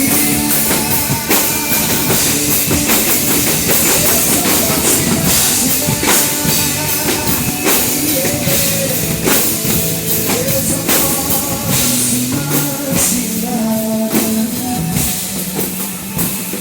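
A live band plays an instrumental passage of a rock worship song. The drum kit is to the fore, with frequent hits over the sustained chords and bass of the rest of the band.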